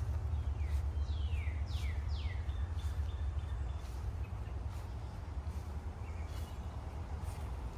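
Wind buffeting the microphone as a steady low rumble, with a bird calling over it: four quick down-slurred whistles in the first couple of seconds, then a few fainter high chirps.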